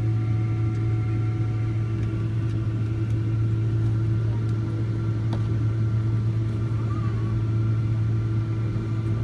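Steady drone inside the cabin of a Boeing 777-200ER on the ground after landing, a strong low hum with a few faint steady tones above it. A faint click about five seconds in.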